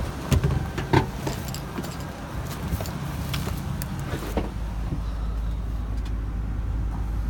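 2000 GMC Yukon's 5.7L Vortec V8 engine running at a steady idle, smooth and even, with a few sharp clicks over it in the first four seconds.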